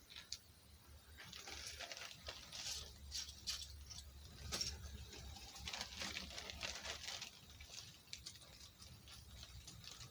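Small model-kit pieces being handled and pressed into place by hand: faint, irregular clicks and rustles, over a low steady hum.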